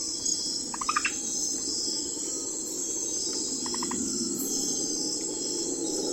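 Night forest ambience: a steady high chorus of crickets and other insects over a low even hiss. Two short, rapid trilled calls cut in, about a second in and again near four seconds.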